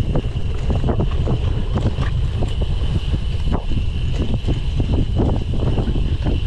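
Wind buffeting the microphone while a cyclocross bike is ridden over rough ground, with its frame and parts rattling in quick, irregular knocks and a steady high whine underneath.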